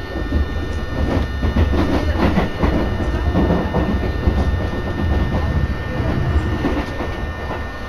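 Keisei Main Line electric commuter train heard from inside the carriage while running: a heavy rumble of wheels on the rails with irregular clatter from the track, and faint steady tones above.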